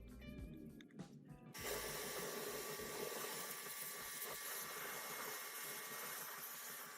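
Brief music, then a sudden switch to a steady hiss from a workshop tool at work on an old gearbox.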